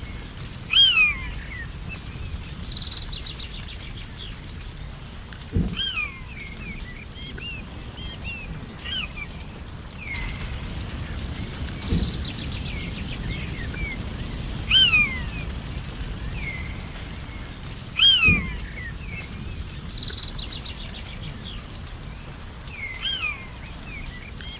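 Forest birds calling: a sharp call that slides down in pitch, repeated every few seconds, and now and then a quicker trill from another bird, over a steady low rumble.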